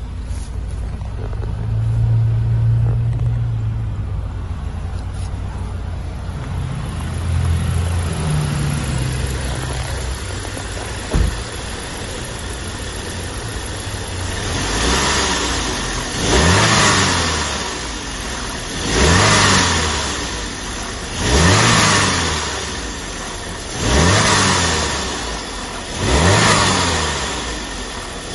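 2006 Saab 9-5's 2.3-litre turbocharged four-cylinder engine idling, then revved again and again in the second half: about five quick rises and falls in engine speed, roughly every two and a half seconds. A single short thump about eleven seconds in.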